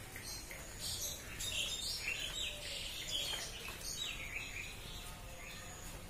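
Birds chirping in the trees: a run of short, high calls that fall in pitch, thickest between about one and four seconds in.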